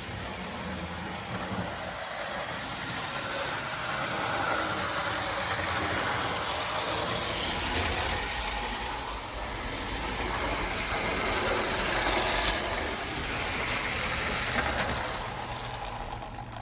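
Marx 2124 Budd RDC toy train running on its track, its electric motor whirring and its wheels rattling. The sound swells and fades as the car travels around the layout.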